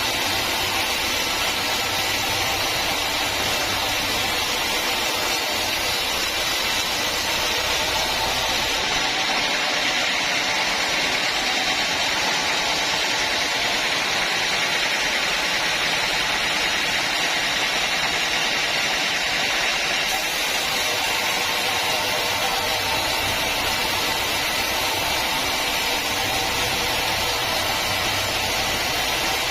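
Sawmill saw running steadily while sawing teak timber, a dense mechanical hiss and whine. Between about 9 and 20 seconds in, the low hum drops away and the higher noise grows stronger.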